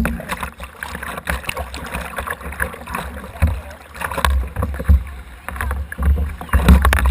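Whitewater rushing and splashing around a kayak, heard from a camera mounted on the boat, with repeated sharp splashes and a heavy low buffeting rumble that grows louder near the end.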